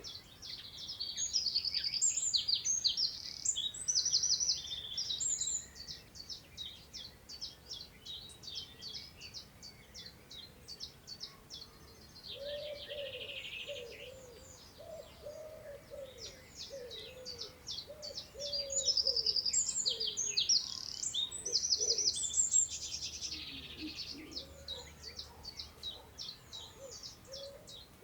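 Several wild songbirds singing in open countryside: two loud, high song phrases with trills, one starting about half a second in and another around two-thirds of the way through, over a steady scatter of short high chirps. Through the second half a lower bird gives a run of short repeated calls.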